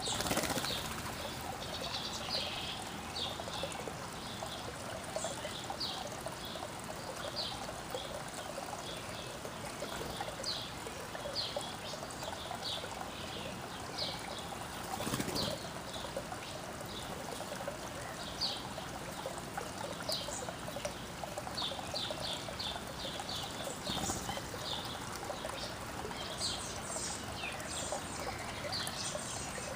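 Backyard songbirds chirping, short high notes repeated every second or so, over a steady rushing background noise.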